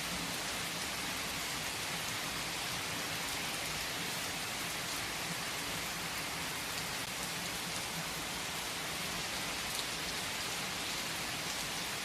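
Steady rain falling on a surface: an even hiss with faint scattered drop ticks and no thunder.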